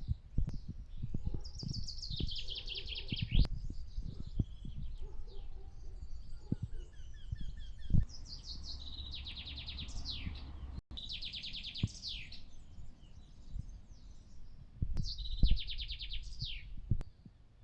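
Songbirds singing: one bird repeats a fast trill of rapid notes that falls in pitch over about two seconds, four times, with other birds calling in between. Low rumble and a few sharp low thumps on the microphone are the loudest sounds.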